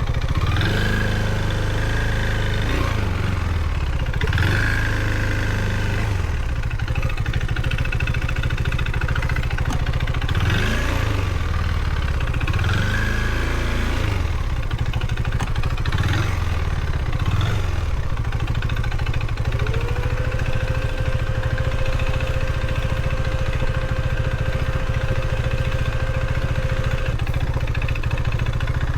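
Husqvarna Svartpilen 401's single-cylinder engine running on the move, its pitch rising and falling repeatedly as it revs up and comes off through the gears over a steady low rumble. About twenty seconds in, a thin whine slides up and holds steady for several seconds.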